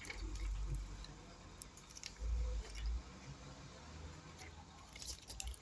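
Handling noise of hand work on a phone: a few light clicks and taps, with low rumbling bumps in the first second and again about two seconds in.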